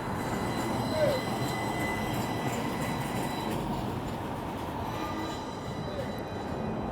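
Electric streetcar running on its rails: a steady rumble with faint, steady high-pitched whine from its electric drive.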